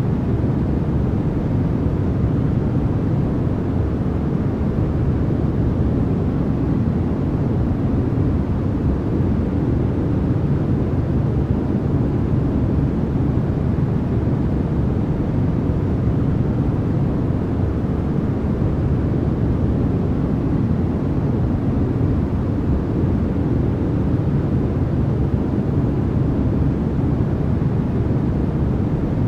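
Steady, unchanging sleep noise, deep and rumbling more than hissy, with no events or changes.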